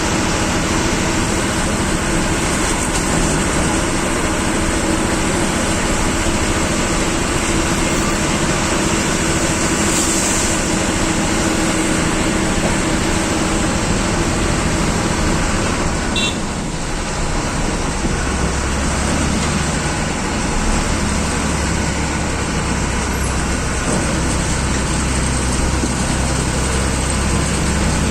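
Government bus's diesel engine running with steady road noise, heard from inside the driver's cabin on a hill road. There is a short hiss about ten seconds in, and the engine's low hum grows stronger a little past halfway.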